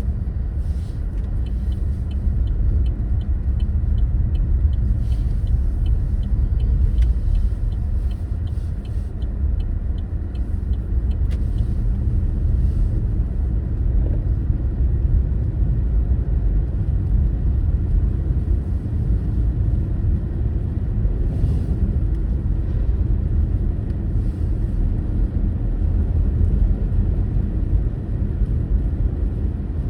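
A car driving: a steady low rumble of engine and road noise. For the first ten or so seconds there is a faint, regular ticking, about two or three ticks a second.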